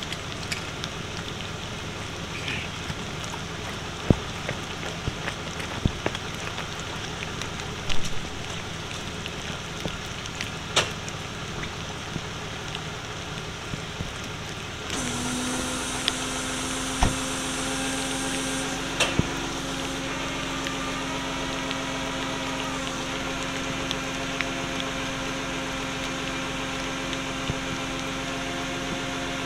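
Rain falling, with scattered sharp drip ticks, over a vehicle running at idle. About halfway through, a steady droning hum sets in and continues.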